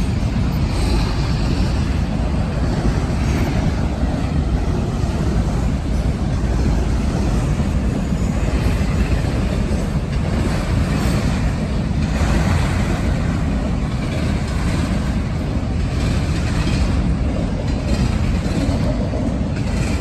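CSX autorack freight train rolling past, a steady low rumble of cars on the rails.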